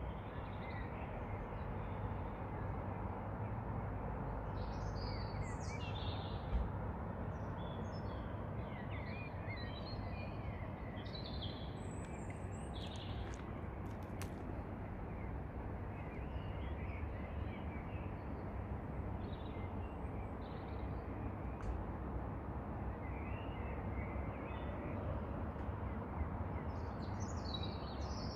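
Small birds chirping and trilling in short scattered calls over a steady low background rumble of outdoor noise.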